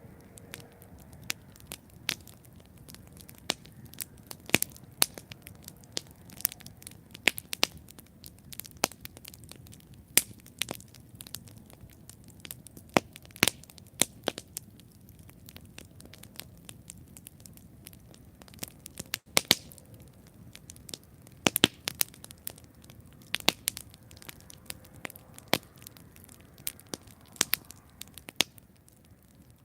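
Wood campfire burning with sharp, irregular crackles and pops over a low, steady rumble of flames.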